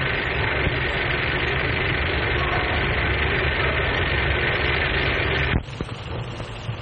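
Steam train running with a steady, loud rumble, heard through an old, narrow-band film soundtrack; it cuts off abruptly about five and a half seconds in, leaving a much fainter hiss.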